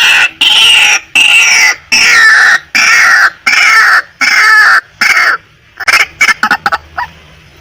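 Female white-breasted waterhen calling: a fast series of about eight loud, harsh calls, each under a second and falling slightly in pitch, then a run of short quick clucking notes about five and a half seconds in.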